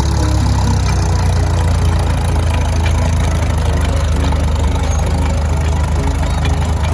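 Vintage tractor engine idling steadily at low revs, a strong even hum. Faint music with short repeated notes plays underneath.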